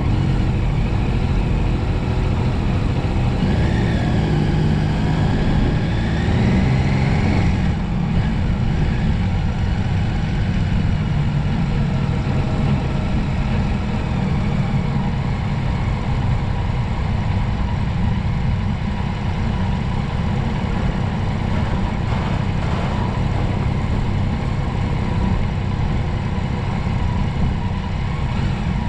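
Motorcycle on the move: a steady engine note under heavy wind and road noise, with the engine pitch rising for a few seconds near the start.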